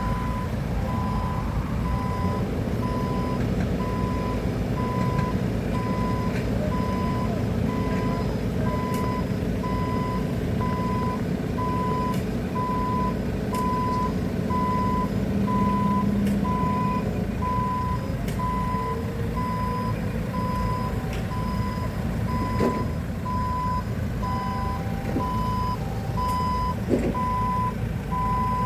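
Heavy equipment's backup alarm beeping steadily, about three single-pitch beeps every two seconds, over the machine's engine running.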